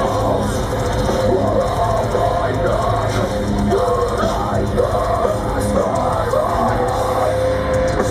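Heavy metal band playing live through a festival PA: distorted guitars over a drum kit, with a melodic guitar line on top.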